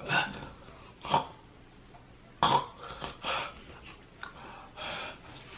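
A man's short, breathy gasps and coughs, about five in a row with pauses between, from a mouth and throat burning after eating ghost pepper chips.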